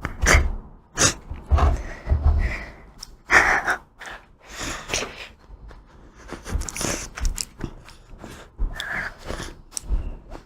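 Close-miked sounds of ice cream being eaten: a run of short, irregular wet mouth noises and chewing, with sharp breaths in between.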